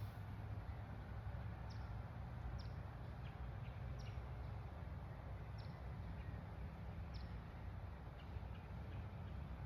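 A bird calling with short, high, downward-sliding chirps every second or so, with fainter, lower chirps between them, over a steady low rumble.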